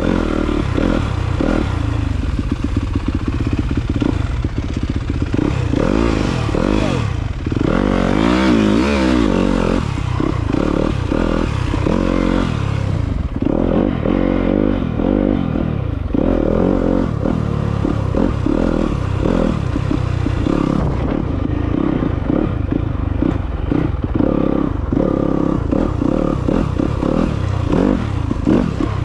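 Off-road motorcycle engine running under way, its pitch rising and falling repeatedly as the throttle opens and closes.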